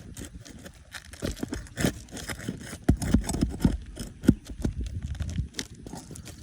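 Irregular knocks, taps and scrapes of hand tools working at roof shingles and their nails, with a cluster of heavier knocks about halfway through.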